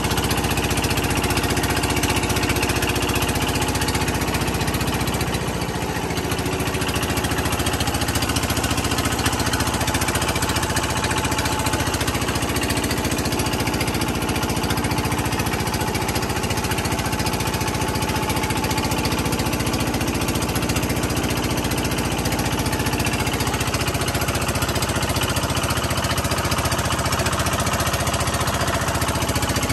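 Motorboat engine running steadily, a continuous rhythmic chugging.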